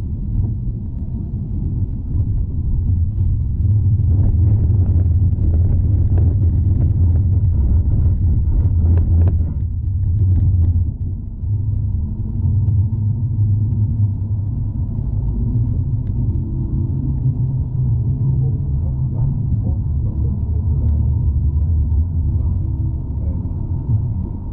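Amsterdam tram running on its rails, heard from inside the car: a steady low rumble, with a spell of rattling clicks in the first half.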